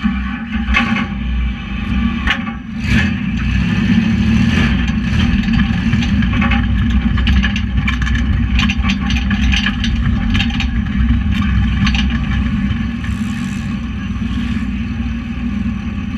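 Tuff truck's engine running loud under throttle, heard from inside the cab, with many sharp knocks and clattering throughout. The sound cuts in suddenly at the start.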